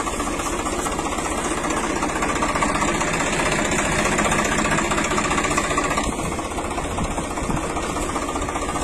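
Tractor engine running steadily, with a rapid, even pulsing beat.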